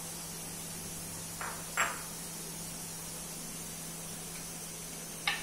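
Steady hiss of cooking on the stove, with a faint hum under it. A couple of light taps of a utensil come about two seconds in, and a louder, sharper clatter comes just before the end.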